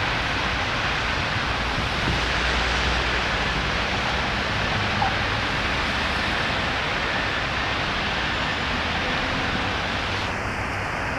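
Steady rushing rumble of a passenger train rolling away along the track, easing off slightly near the end.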